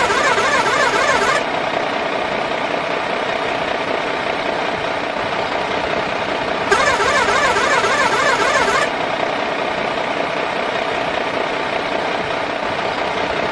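Toy RC truck's small electric motor and gears whirring steadily. A brighter warbling sound cuts in for about two seconds at the start and again about seven seconds in.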